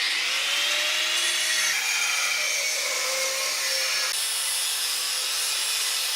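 A power tool running steadily under load: a high, even whir with faintly wavering pitch, as when cutting or grinding metal.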